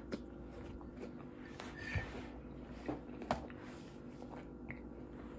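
Faint chewing of a mouthful of Honeycomb cereal in milk, with a few soft mouth clicks at intervals.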